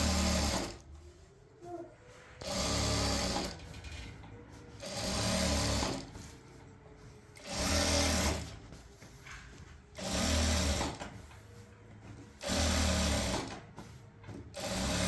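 A small machine motor running in short bursts of under a second, about every two and a half seconds, with a low hum under each burst.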